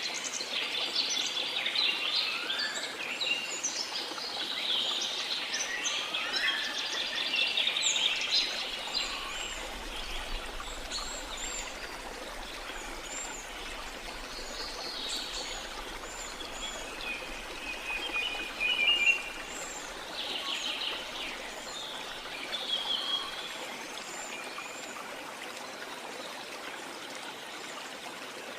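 Small songbirds chirping and singing over a steady wash of sea water. The birdsong is dense for the first several seconds, then thins to scattered chirps and short trills.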